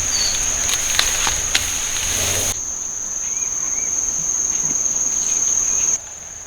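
Insects trilling in one steady, shrill, high-pitched note. Scattered sharp clicks and rustling noise are heard in the first couple of seconds, then the sound drops abruptly, and drops again near the end.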